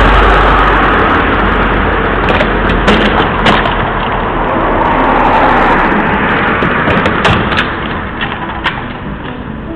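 Road vehicle noise fading away, with several sharp cracks and knocks about two to three seconds in and again near the end.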